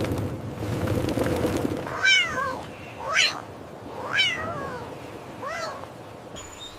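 A cat meowing four times, each meow short and mostly falling in pitch, about a second apart. For the first two seconds a rushing noise fades out beneath them.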